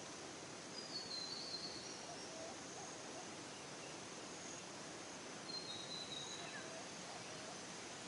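Nature ambience: a steady soft hiss with birds calling over it, a short high twittering call about a second in and another near six seconds, with fainter low chirps in between.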